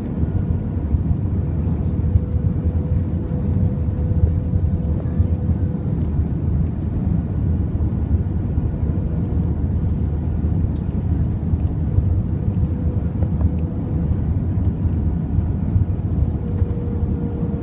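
Airbus A320 cabin noise on final approach: a steady rumble of engines and airflow, with a thin steady hum running through it.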